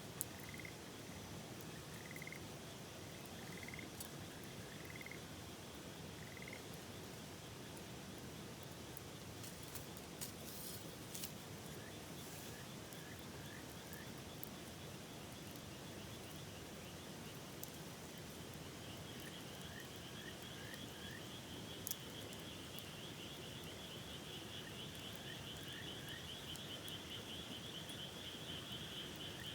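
Frogs calling over the steady rush of a river: short chirping calls, about one a second at first and then in small groups of three or four. From about two-thirds through, a fast pulsing trill joins in and grows. A few sharp pops from the campfire crackle through.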